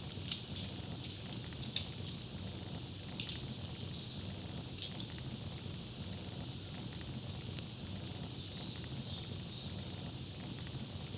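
Campfire crackling steadily with frequent small pops and snaps over a low, steady hiss of flames, and a few faint bird chirps now and then.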